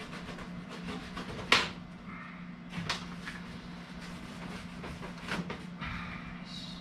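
Handling knocks and scraping as a duct booster fan and its packing cardboard are worked loose in the duct: one sharp knock about a second and a half in, a lighter one about a second later, and scattered rustles and clicks, over a steady low hum.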